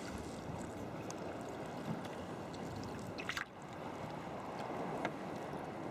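Sea water lapping and gurgling around a sea kayak, with a short splash a little over three seconds in.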